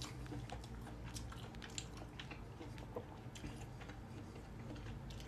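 A person chewing a mouthful of soft gnocchi in ricotta sauce: faint, irregular wet mouth clicks and smacks over a low steady hum.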